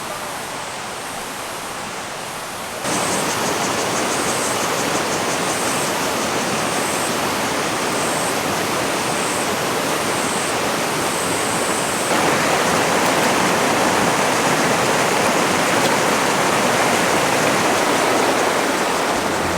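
Mountain stream rushing steadily, suddenly louder about three seconds in and again a little louder about twelve seconds in.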